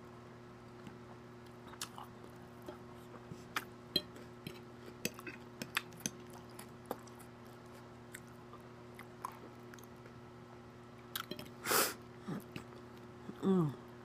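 Close-up chewing of lettuce salad: wet mouth clicks and soft crunches over a faint steady hum. Near the end comes a louder noisy burst, then a short voice sound falling in pitch.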